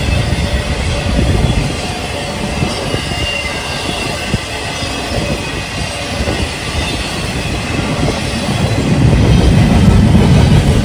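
A train rolling by on the rails: a steady low rumble of wheels and cars with some faint wheel squeal, swelling louder near the end.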